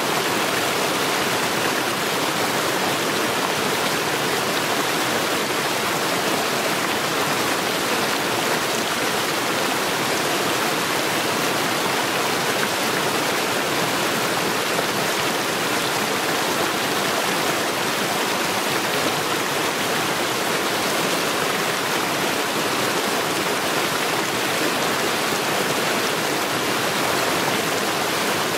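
A mountain stream rushing over stones in a steady, unbroken rush of water.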